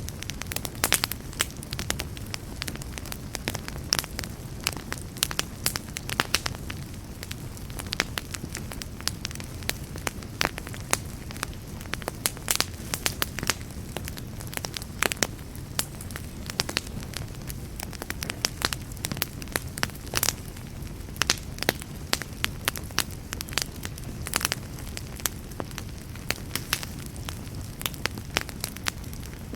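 Wood fire crackling: frequent sharp pops and snaps, irregularly spaced, over a steady low rumble of burning.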